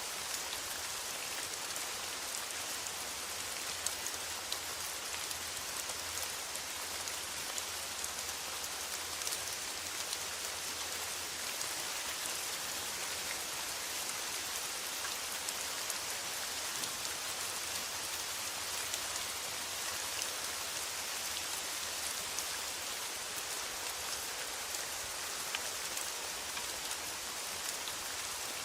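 Steady rain falling on a metal roof: a dense, even hiss with many scattered sharper drop ticks.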